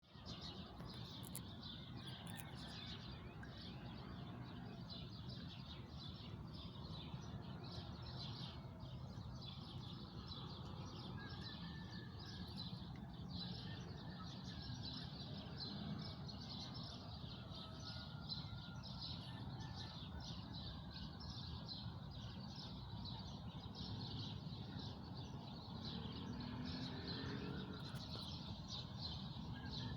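Outdoor natural ambience: a steady, dense high chirping chorus over a low rumble, with a few faint gliding calls now and then.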